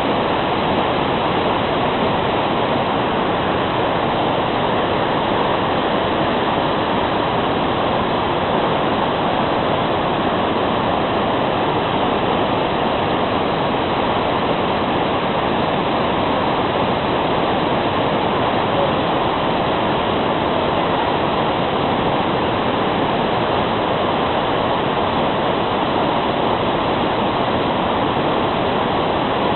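Steady, loud rushing noise with no breaks or changes in level.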